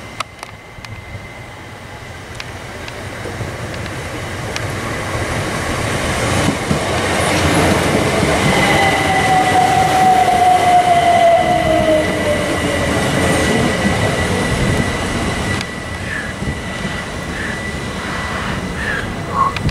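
Southern Class 377 Electrostar electric multiple unit passing close by: the rumble of wheels on rail grows louder, and its motor whine falls in pitch as it goes past. Near the end a second Class 377 arrives, with a few short wheel squeals.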